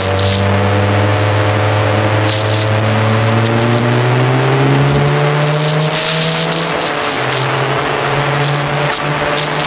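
Motorcycle engine running at highway speed, its pitch climbing slowly for about five seconds and then dropping back, under steady wind noise on the microphone that gusts louder a couple of times.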